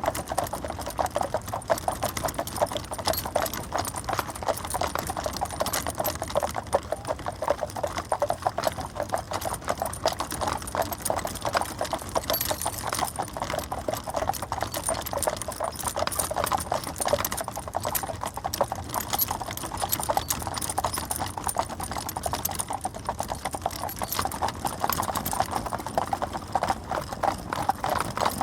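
Stagecoach drawn by a team of four horses, hooves clip-clopping in a rapid, overlapping rhythm.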